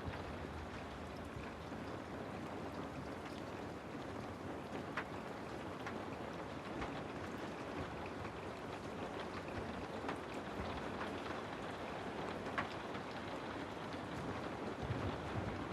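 Steady rainfall: a dense, even hiss with occasional single drops ticking out sharply.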